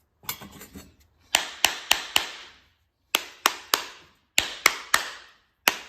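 Sharp taps on the metal housing of a pickup's starter, to knock its electric motor loose. They come in groups of three or four, about three a second with short pauses between, each ringing briefly.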